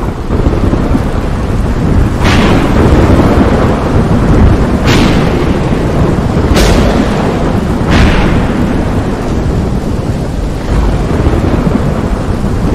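Thunderstorm: heavy rain and a continuous low rumble of thunder, with four sharp thunder cracks about two, five, six and a half and eight seconds in.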